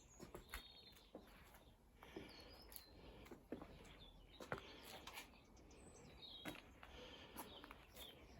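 Near silence with faint birds chirping now and then, and a few soft clicks.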